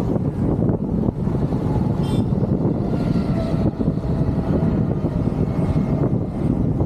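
Riding a motorcycle through traffic: a steady, loud rumble of engine, road and wind noise on the microphone.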